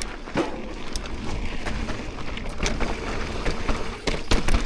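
Mountain bike riding down a trail: steady rumble of tyres and wind on the helmet-mounted microphone, with rattling knocks and clicks from the bike over bumps, the loudest cluster of clacks near the end.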